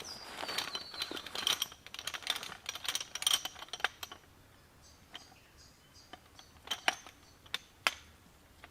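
Metal camping gear being handled: a dense run of clinks, rattles and short metallic rings for about four seconds, then a few scattered clicks and knocks.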